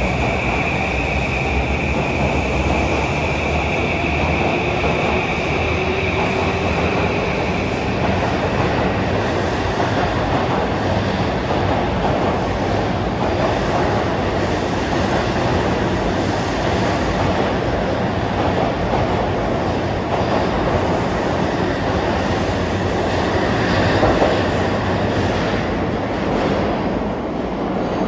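Electric commuter train running past, a steady loud rumble and clatter of wheels on rails. A high whine fades out about eight seconds in.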